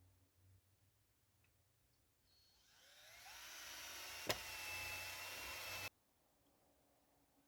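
A small electric motor spinning up with a rising whine, running for about three seconds with a single sharp click partway through, then cutting off abruptly.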